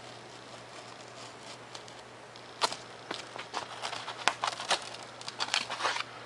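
Razor knife cutting through a 3mm Depron foam sheet: a run of short, irregular crackling and scratching strokes that starts about halfway through, over a faint steady hiss.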